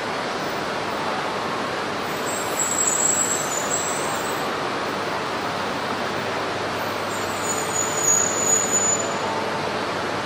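Tsubasa mini-shinkansen train pulling slowly into the platform, a steady running noise of the moving train. Two brief high squeals come about two and a half and seven and a half seconds in.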